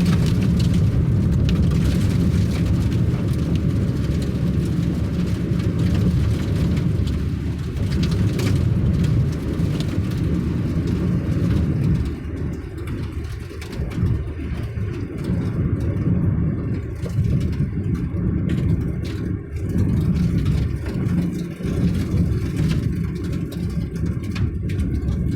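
Steady low rumble of a vehicle being driven: engine and tyre noise. A hiss over it thins out about halfway through.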